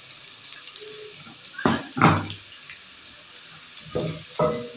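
Sliced onions and ginger-garlic paste frying in oil in an aluminium pot: a steady sizzle, with a wooden spoon stirring and scraping through the pot in short strokes twice around the middle and twice more near the end.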